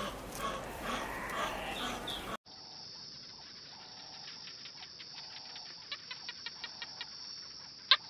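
Birds calling in a busy chorus of short repeated notes. About two seconds in, this cuts abruptly to a steady high-pitched drone, joined near the end by a run of quick chirping clicks, about six a second.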